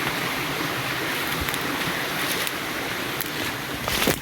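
Steady rush of flowing stream water, with a few brief knocks near the end.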